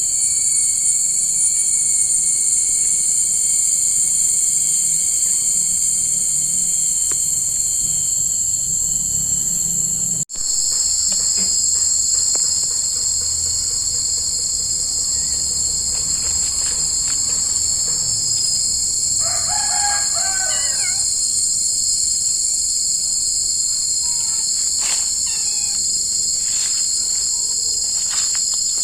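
Dense, steady chorus of crickets and other insects, a continuous high-pitched shrill. It cuts out for an instant about ten seconds in. A short bird call comes through about twenty seconds in.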